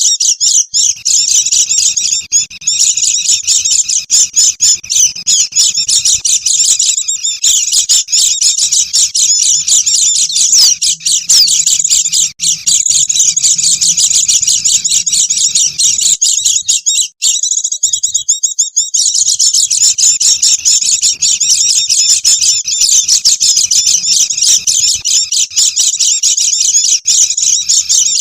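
A flock of white-eyes (pleci) chattering all at once in a dense, unbroken stream of quick high chirps, played as a lure call to draw in wild birds. The chatter thins out for about two seconds a little past the middle, then resumes.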